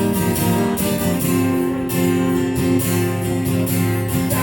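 Acoustic guitar strummed in steady chords, an instrumental break with no singing.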